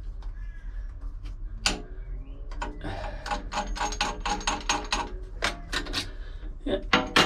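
Oil filter wrench being worked on a narrowboat engine's oil filter to loosen it: a run of sharp metallic clicks, about four a second, in the middle, with single louder clicks before and after.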